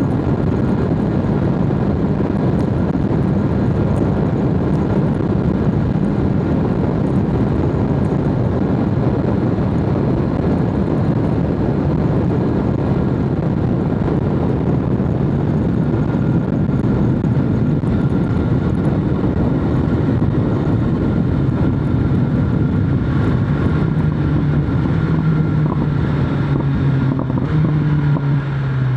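BMW S1000RR inline-four sport bike engine running steadily at road speed under rushing wind noise. Its tone climbs a little over the last few seconds as the bike speeds up.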